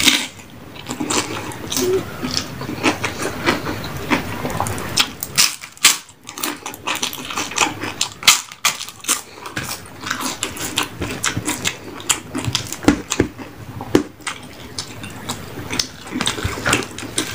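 Close-miked eating sounds: irregular chewing, wet mouth smacks and crisp crunches of fried food. There is no steady rhythm.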